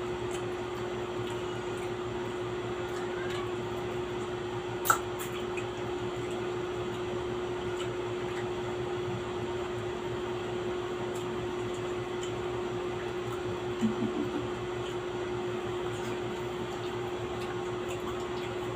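Steady hum of a small motor or appliance holding one constant low tone, with a single sharp click about five seconds in and a brief low sound near fourteen seconds.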